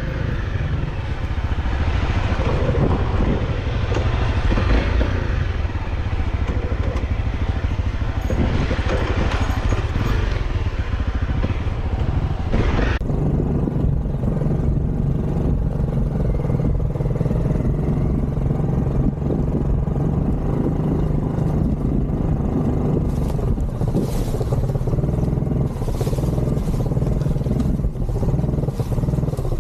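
Off-road motorcycle engine running steadily. About thirteen seconds in, the higher hiss and rattle stop abruptly, leaving a steadier low engine note.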